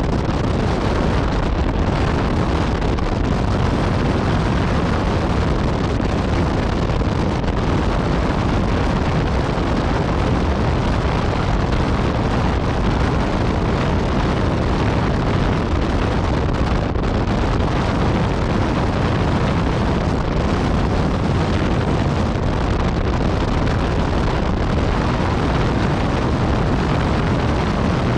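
Steady wind rushing over the microphone of a Yamaha MT-09 Tracer riding at a constant road speed, with its inline-three engine and Akrapovič exhaust running underneath. The level holds even, with no clear revving or gear changes.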